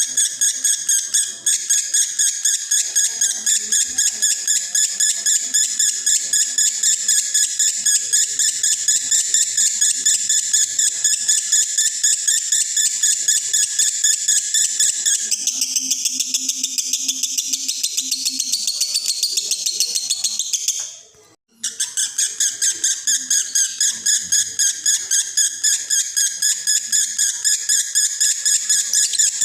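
Male lovebird in breeding condition singing a long konslet song: a rapid, unbroken high chatter of repeated notes, shifting in pattern for a few seconds past the middle and breaking off for about half a second two-thirds of the way through before going straight on.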